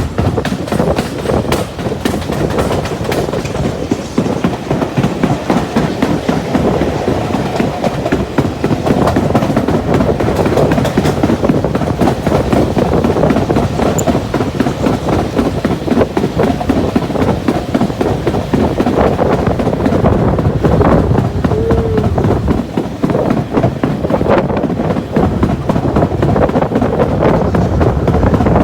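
Heritage railway train running steadily along the track, with a continuous rumble and repeated clicks from the wheels.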